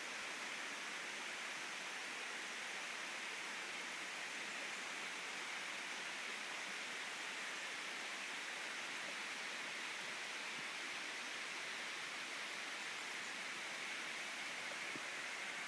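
Steady rushing of a rainforest creek and its small waterfall, an even hiss with no breaks.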